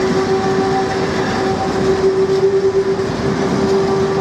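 Empty open freight wagons rolling slowly past, their wheels and couplings rumbling and rattling, with a steady high squeal held throughout.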